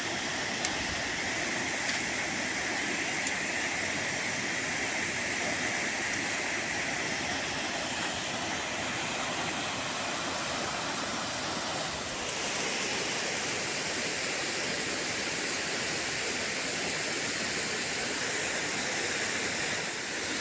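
Steady rushing noise of running water, with a slight change in its tone about twelve seconds in.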